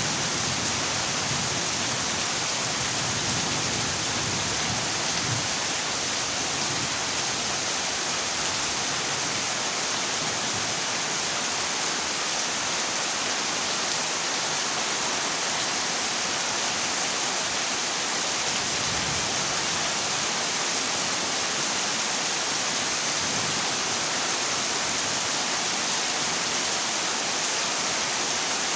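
Heavy rain drumming steadily on a corrugated zinc roof, an even hiss with no pauses. A low thunder rumble fades away over the first few seconds.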